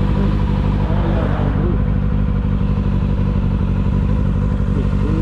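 Kawasaki ZX-6R's inline-four engine running at a steady pitch while the bike is ridden, with no revving.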